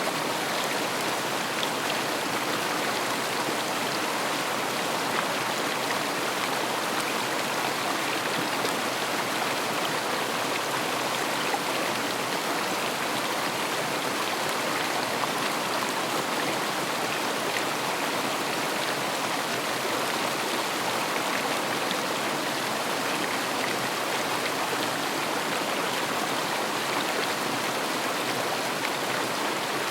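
River water rushing and splashing over stones in a steady, unbroken flow.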